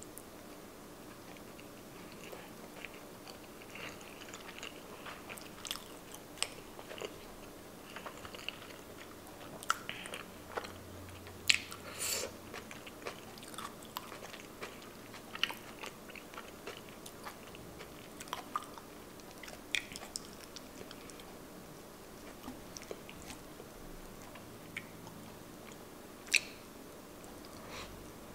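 Close-miked chewing of a mouthful of sushi roll: soft, wet mouth clicks and smacks that come irregularly, with a few sharper ones about a third of the way in and once near the end.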